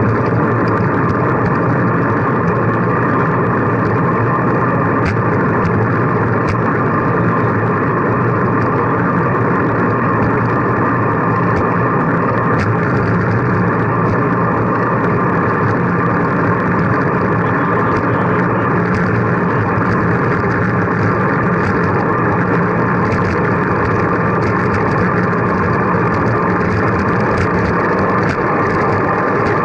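Steady, unbroken road and wind noise of riding along, with no change in level.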